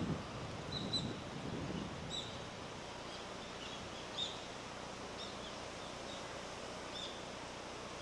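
Short, high bird chirps, about a dozen spread irregularly, over faint outdoor background noise.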